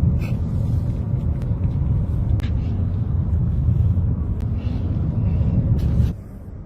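Car driving with heavy low road and wind rumble heard from inside the cabin, with scattered small clicks; it drops off suddenly about six seconds in.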